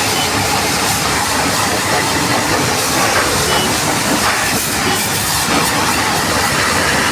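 Steady hiss of a high-pressure water spray, as from a car wash pressure washer, running without a break.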